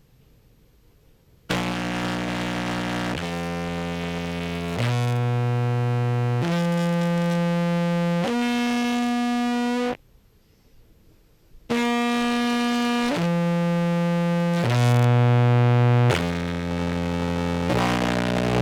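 Contrabass clarinet played through fuzz and compressor pedals: a phrase of heavily distorted, sustained low notes, each held about a second and a half, with a short break about ten seconds in. The compressor is set so the note attacks have a little bounce rather than a flat, robotic start.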